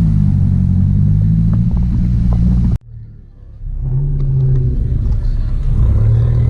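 Car engine running close by with a low, steady exhaust note that drifts slightly in pitch. It breaks off abruptly about three seconds in, and a car engine comes back a second later.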